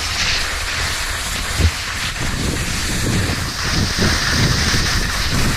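Wind buffeting the microphone in uneven gusts over a steady hiss, with one short thump about a second and a half in.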